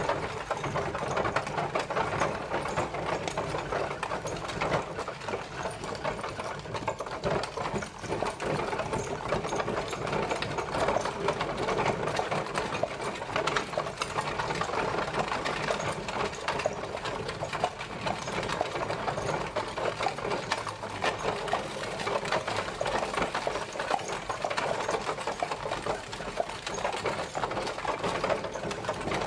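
Horse-drawn carriage on the move: a dense, continuous rattling and clattering that keeps up without a break.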